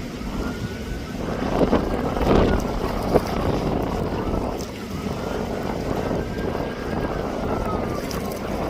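Jet aircraft engine noise with wind buffeting the microphone, a faint whine drifting slowly up and down in pitch over a steady rumble.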